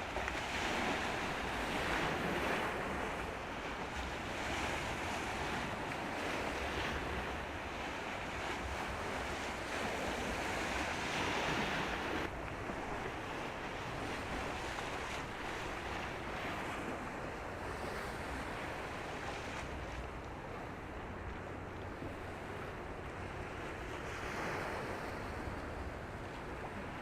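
Steady rushing noise of wind on the microphone and sea water, with no distinct engine tone. The sound turns duller abruptly about twelve seconds in.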